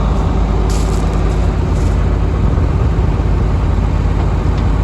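An engine running steadily at idle, with a short hiss about a second in.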